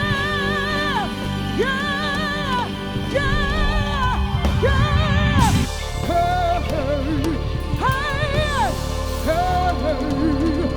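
Live soul band playing, with a lead melody of long held notes with vibrato in phrases about a second long over bass and drums.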